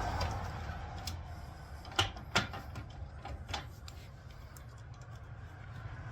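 A handful of sharp clicks and light metallic taps, the loudest two about two seconds in, from steering shaft parts and bolts being handled and fitted. A low rumble fades out over the first second or so.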